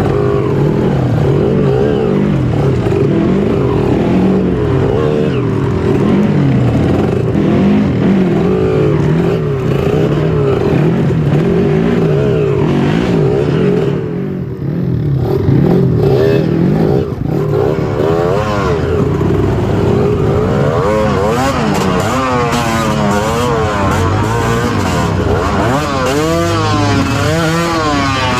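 Trail motorcycle engine running under constantly changing throttle, its revs rising and falling, with a brief drop in level about halfway through and quick, repeated blips of the throttle in the second half.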